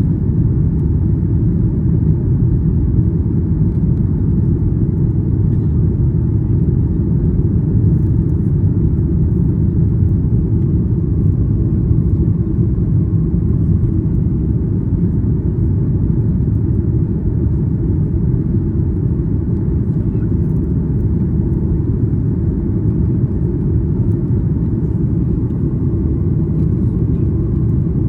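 Steady low rumble of cabin noise inside a Boeing 737 MAX 8 airliner, the hum of its CFM LEAP-1B engines and rushing air, holding level with no change in pitch.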